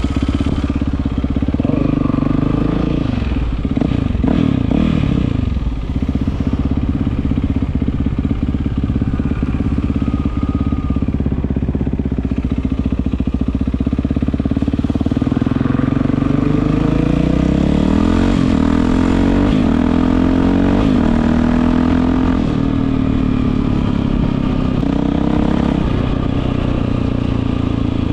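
Yamaha WR450F's single-cylinder four-stroke engine through an Akrapovič exhaust, running and revving. The pitch swings up and down a few seconds in, then rises in several climbing sweeps past the middle.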